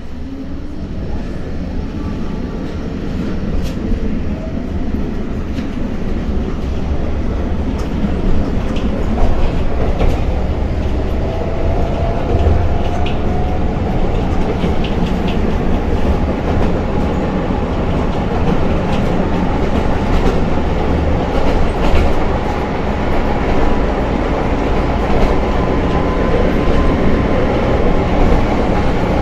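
Tatra tram running on rails, the rumble building over the first few seconds as it gathers speed. A faint motor whine rises slowly in pitch, with scattered sharp clicks from the wheels on the track.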